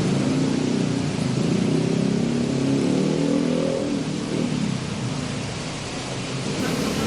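Heavy rain hissing steadily, with a vehicle engine running close by whose pitch rises a little before it fades away about four to five seconds in.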